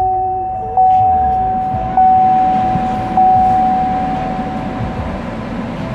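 2018 GMC Yukon Denali's cabin warning chime sounding three times, one clear note about every second, each dying away; it stops after the third. A steady low running sound from the started truck continues underneath.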